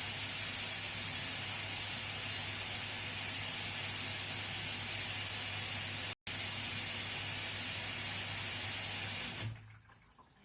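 Washing machine drawing water: a steady rush of water with a low hum, broken by a brief dropout about six seconds in and dying away near the end.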